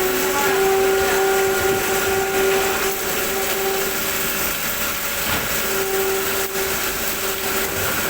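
CNC machine running a cutting job: a steady machine whine over a constant hiss, the whine dropping away about halfway through and returning shortly after.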